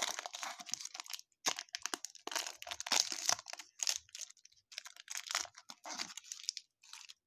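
Baseball card pack wrapper crinkling and tearing as it is opened by hand, in a run of irregular rustles that stop suddenly near the end.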